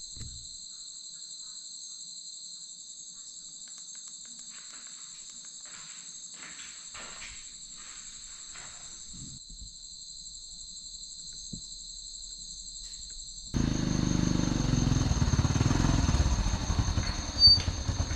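Crickets and other insects chirring steadily at night. About three-quarters of the way through, a much louder low rumble with a rapid pulse starts suddenly and runs to the end.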